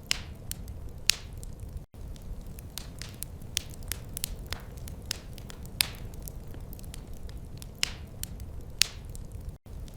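Wood fire crackling: a steady low rumble of burning logs with irregular sharp pops and snaps, a few much louder than the rest. The sound drops out for an instant about two seconds in and again near the end.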